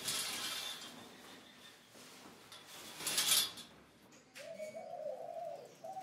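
A bird cooing: a low, wavering call that starts about four seconds in. Before it come two short hissing rushes of noise, one at the start and one about three seconds in.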